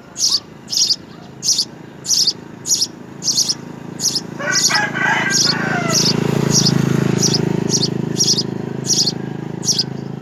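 A small bird chirping over and over, short high chirps about one and a half times a second. About halfway a lower, busier burst of calls cuts in, over a low rumble.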